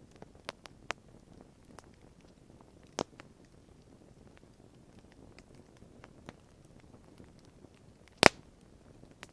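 Wood campfire crackling: a low steady rumble of flames with scattered sharp pops, and one loud pop about eight seconds in.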